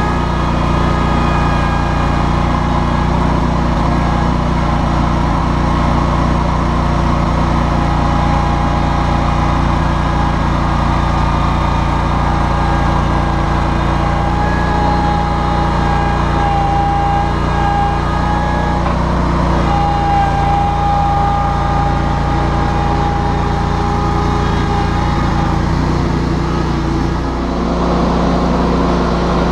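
John Deere X700-series garden tractor engine running steadily, with a higher whine rising over it now and then through the middle and a change in the engine note near the end.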